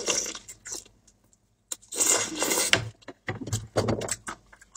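Close-up eating sounds: a person biting meat off a bone and chewing it, in irregular bursts with short clicks in between.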